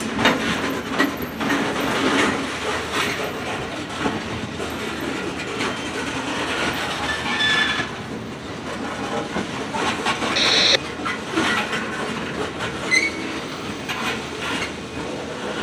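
Freight train cars rolling past with continuous rumble and uneven wheel clatter over the rail joints, and a few brief high squeals from the wheels, the loudest about two-thirds of the way through.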